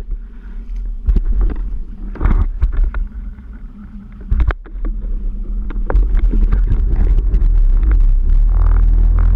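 Yamaha 701 two-stroke twin in a Waveblaster jet ski, breathing through a Riva aftermarket pipe and waterbox, running unevenly at low speed with scattered knocks. It picks up about six seconds in and runs louder and steadier near the end.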